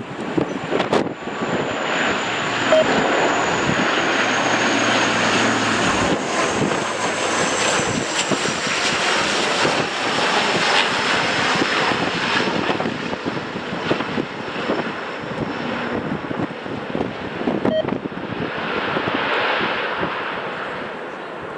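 Jet airliner's engines on a landing approach, a loud steady roar with a high whine that slowly falls in pitch as the aircraft passes.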